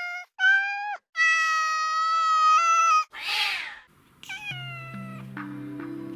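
Cat meowing: two short meows, then one long level meow of about two seconds, followed by a short breathy noise and a falling meow. Soft background music with sustained low notes comes in about four and a half seconds in.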